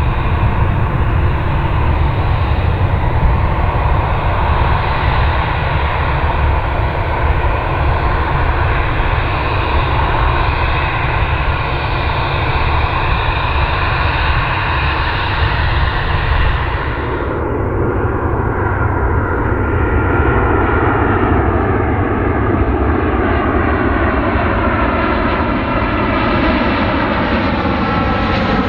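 Jet airliner on landing approach passing close by, its engines loud and steady. In the last third the engine tones slowly fall in pitch as it moves away.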